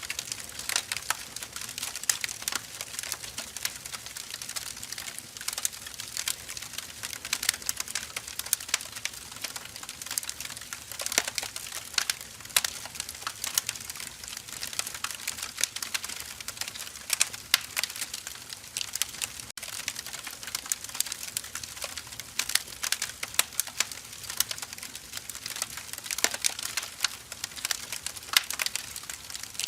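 Wood fire burning: firewood logs crackling and popping with many irregular sharp snaps over a soft hiss.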